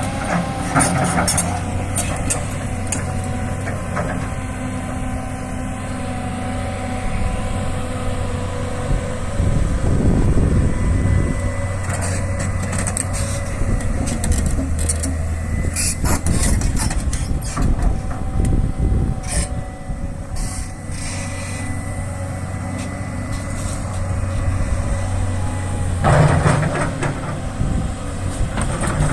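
Heavy diesel engine of a forestry machine running steadily under work, with a thin steady whine and scattered knocks and clatter, and louder bursts about ten seconds in and near the end.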